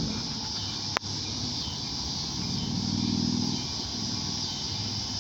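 A motor vehicle's engine running, swelling and easing off again in the middle, over a steady background rumble, with one sharp click about a second in.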